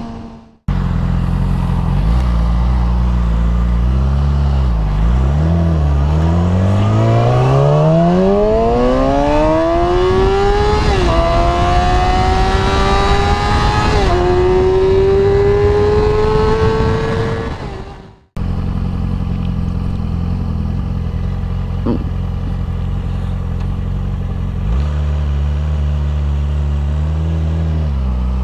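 Suzuki GSX-R sportbike engine accelerating hard, its pitch climbing through the gears with two quick upshifts, then running low and steady. The sound cuts out abruptly twice, once near the start and once about two-thirds of the way through.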